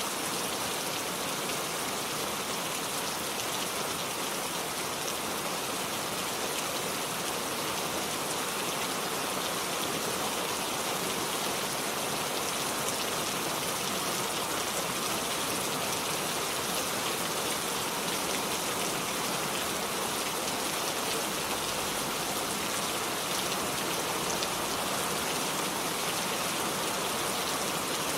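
Steady rainfall, a dense even hiss of rain pattering on surfaces.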